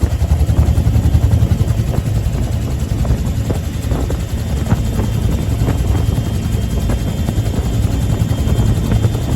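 Bell UH-1H Huey helicopter running, its T53 turboshaft and two-blade main rotor making a loud, steady, low chopping beat.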